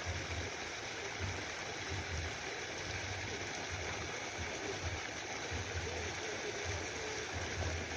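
Steady rushing noise with irregular low rumbles underneath, and faint voices far back.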